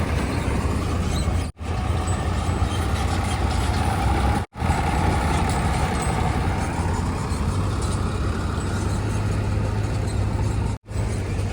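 Heavy diesel machinery engine running steadily with a deep rumble, broken by three brief, sudden drops to silence.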